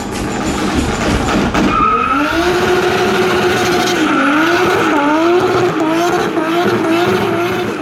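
Car doing a burnout: engine held at high revs with tyres squealing, the pitch wavering up and down.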